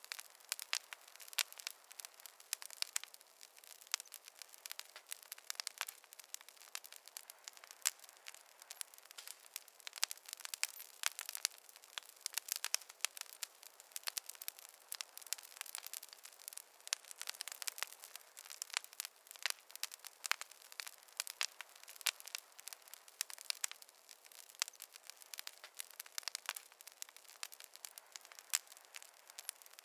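Campfire crackling: a dense, irregular run of sharp snaps and crackles from the burning wood over a faint hiss, going on steadily with no let-up.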